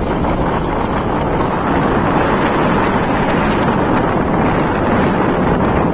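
Loud, steady wind noise on the microphone mixed with rushing water, aboard a boat at sea.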